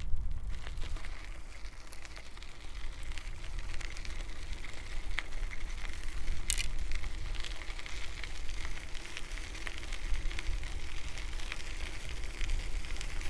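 Bicycle tyres rolling and crackling over a gravel path, a dense patter of small clicks, with steady wind rumble on the microphone underneath.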